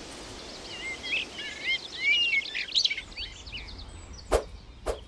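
Small songbirds chirping and warbling in quick rising and falling notes over a steady outdoor hiss, followed near the end by two sharp knocks about half a second apart.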